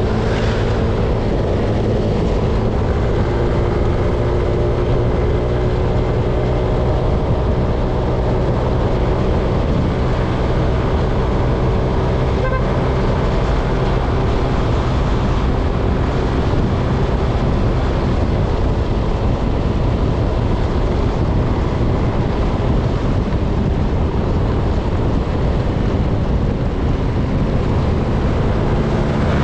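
An engine running steadily at a fairly even pitch, with no clear revving.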